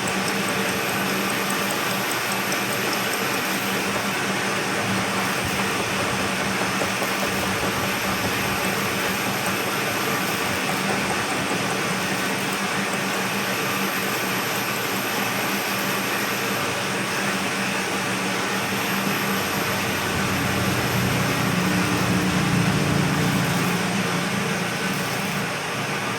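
Vertical milling machine running steadily while cutting the teeth of a spur gear: a constant motor and spindle hum over a broad hiss. The low hum gets louder and rougher for a few seconds near the end, as the cutter works harder.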